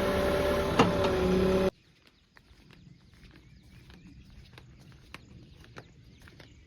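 Heavy diesel machinery running loudly with a steady whine, with a single sharp click about a second in; it cuts off abruptly after under two seconds, leaving quiet outdoor background with faint scattered ticks.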